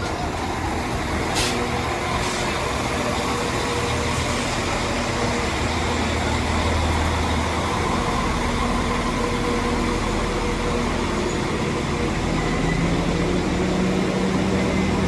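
Class 195 diesel multiple unit at the platform, its diesel engines running with a steady low rumble and hum that grows slightly louder, with a deeper engine note building over the last few seconds.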